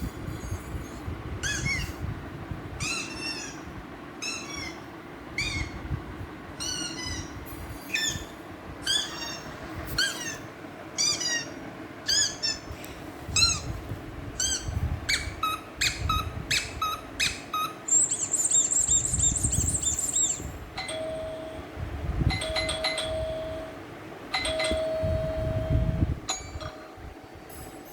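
A series of electronic sound effects: short falling chirps repeated about every half second to second, then a steady high-pitched tone for about two seconds, then three held doorbell-like tones.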